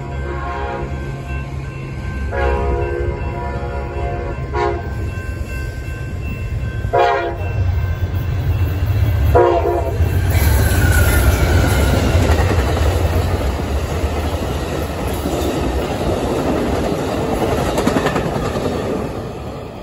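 Amtrak diesel passenger locomotive's horn blowing a series of blasts as it approaches: two long, one short, then two more. The locomotive then passes at speed with a loud engine rumble, followed by the rushing clatter of bi-level Superliner passenger cars on the rails. The sound drops off as the last cars go by near the end.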